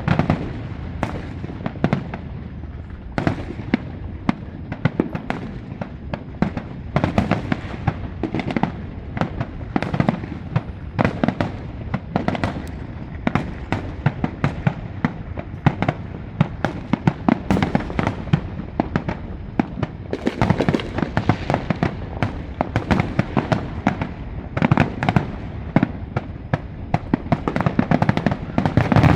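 Fireworks display going off in rapid succession: many sharp bangs and cracks a second, one after another, over a steady low rumble.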